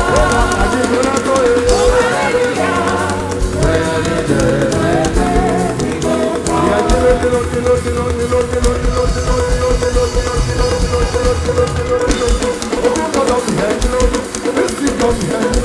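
Church band music with drum kit, bass and guitar playing a steady beat under a held keyboard note, with some singing in the first few seconds.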